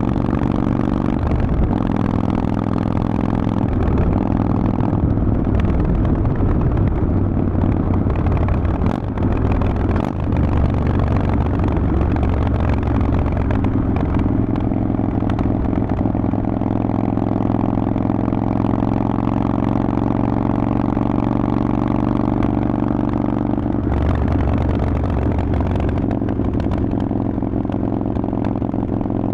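Harley-Davidson Forty-Eight's 1200 cc air-cooled V-twin running through a Vance & Hines exhaust while riding, its pitch shifting with the throttle. The sound dips briefly twice, about nine and ten seconds in.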